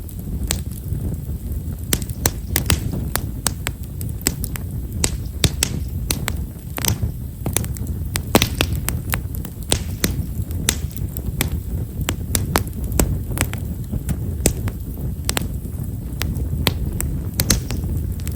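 Campfire of himeshara (Stewartia monadelpha) firewood crackling, with many small, fine, rapid pops scattered irregularly over a steady low rumble of the burning fire.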